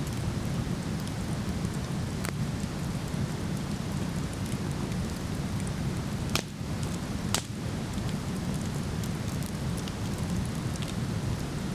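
Steady rush of a waterfall, with a wood fire crackling over it; a few sharp pops from the burning wood, one about two seconds in and two louder ones around six and seven seconds in.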